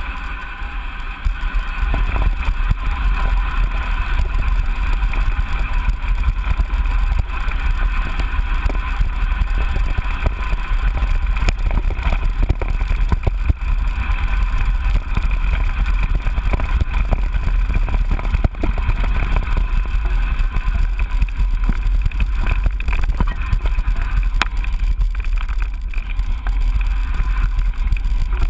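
Wind buffeting the microphone of a GoPro action camera on a mountain bike riding a trail, with a constant low rumble and frequent short rattles and knocks from the bike going over rough ground.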